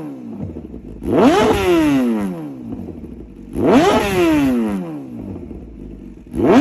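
Kawasaki ZX-10R inline-four sport bike revved through its exhaust in three sharp blips about two and a half seconds apart. Each blip rises quickly in pitch and dies away slowly.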